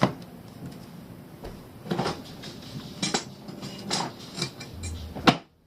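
Metal hand tools clinking and knocking against each other in a series of separate clanks while someone rummages for a screwdriver. The sound cuts off abruptly near the end.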